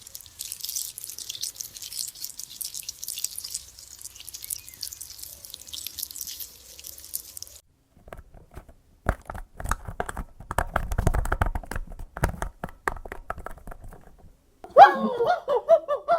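An animal chewing and crunching food: a dense, crisp crackling for the first seven seconds or so, then after a short pause a run of sharp crunches. A pitched voice starts near the end.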